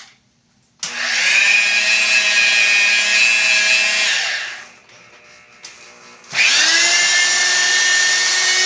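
Handheld electric power tool working marble, run twice for a few seconds each time; its motor whine rises as it spins up and falls away as it winds down.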